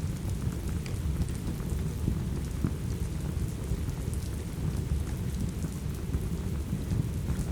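Steady rain with a constant low rumble underneath, mixed with a fireplace crackling in scattered sharp pops.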